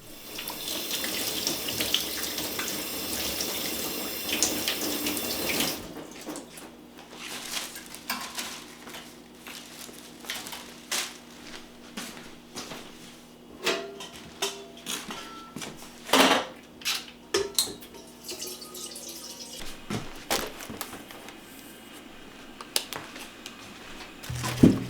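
Kitchen tap running into a sink for about six seconds, then shut off, followed by scattered knocks and clatters of dishes and utensils being handled.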